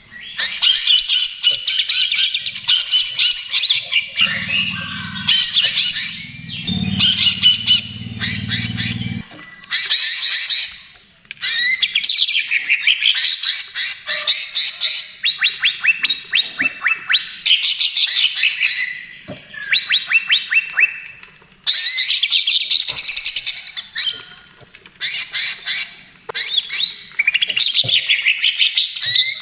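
Cucak ijo (green leafbird) singing in rapid, continuous bursts of varied chattering phrases and harsh notes, broken by short pauses.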